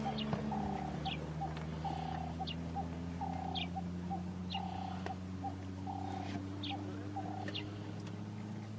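Birds calling: one bird repeats a phrase of a longer note and short notes about once a second, with brief higher chirps from another bird, over a steady low hum.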